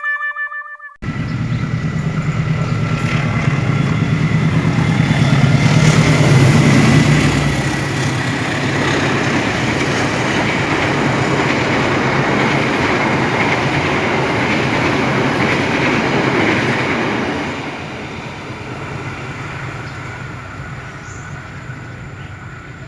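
Train running past on the rails: a loud, steady rush of wheel and track noise with a low hum, a thin high tone riding over it for the first several seconds, and the noise dropping lower and fading from about seventeen seconds in.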